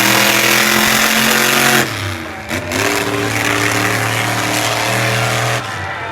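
Monster truck engine running at steady high revs. It drops off a little before two seconds in, climbs back up and holds, then eases off again near the end.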